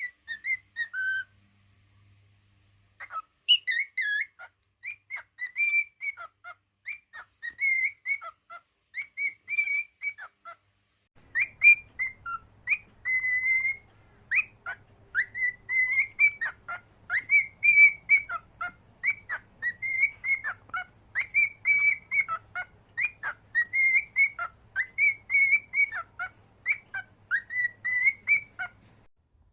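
Cockatiel whistling a long run of short, clear notes, mostly held near one pitch with quick dips and rises between them, pausing briefly twice before carrying on steadily.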